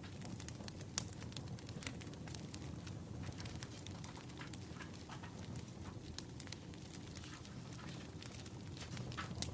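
Wood fire crackling, with irregular sharp pops over a steady low rumble; one pop about a second in is the loudest.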